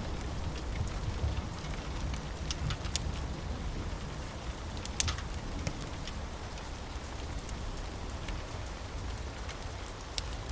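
Steady rain with scattered sharp ticks of drops, over a low rumble of distant thunder that eases after the first few seconds.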